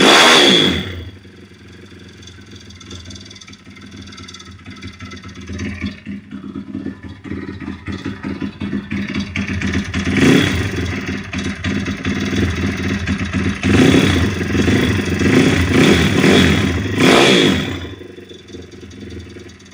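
YX 160 single-cylinder four-stroke pit-bike engine idling with a rapid clatter, blipped up in revs about ten seconds in and again for several seconds near the end. Through it runs a wandering metallic ringing knock whose source the owner has not found.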